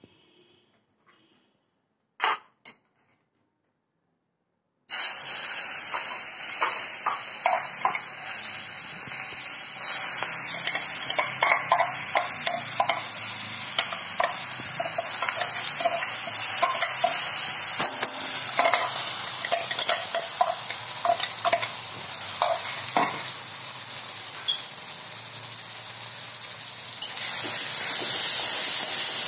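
Ground onion, garlic, ginger and chilli paste sizzling in hot oil in a pan, with many short scrapes and clicks as it is stirred. The sizzling starts suddenly about five seconds in, after near silence broken by two short clicks.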